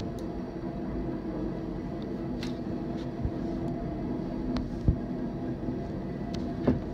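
Diesel train running steadily, a low rumble with a steady engine drone. A few sharp knocks cut through it, the loudest about five seconds in and again near the end.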